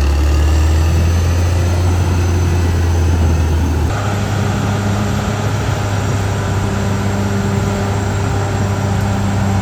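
Caterpillar D6R XL bulldozer's diesel engine running steadily while working. About four seconds in, the engine note shifts abruptly to a different steady pitch.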